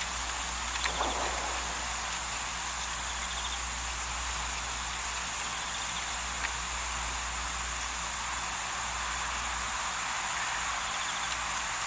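Steady bush ambience: an even hiss with faint insect trills over a constant low hum. There is a brief soft sound about a second in and a single click about six and a half seconds in.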